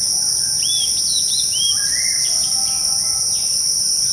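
Woodland ambience: insects trilling steadily at a high pitch, with a few short, arching bird chirps in the first two seconds.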